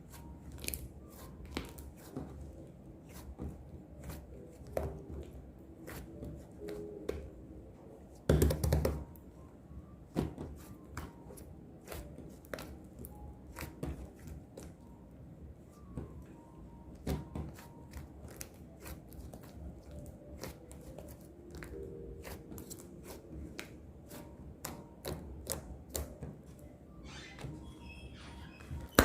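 Irregular light taps and clicks, like small objects being handled on a desk, with a louder thump about eight seconds in and a lower, steady room hum beneath.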